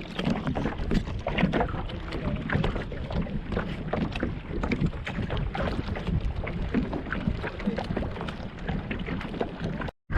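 Paddle strokes splashing and dripping on water, with wind rumbling on the microphone. The sound cuts out briefly near the end.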